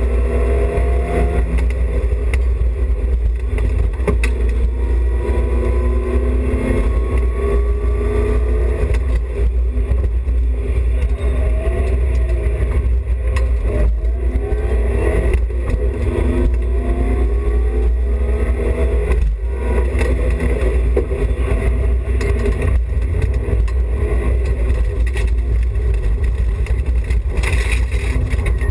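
BMW E30 316i rally car's four-cylinder engine under hard acceleration, revving up again and again in low gears with breaks between for gear changes, over a heavy low rumble of road and drivetrain noise.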